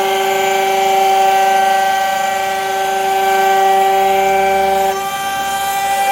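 CNC router spindle running with a steady whine of several held tones as it carves wood. The tone shifts slightly about five seconds in.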